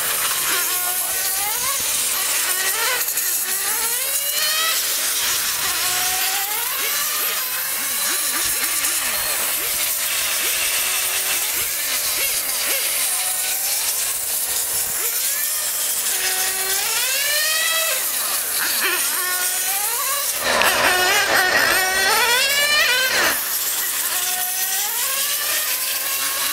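Small high-revving engine on test, run up in pitch again and again in short bursts, with a louder stretch about three-quarters of the way through.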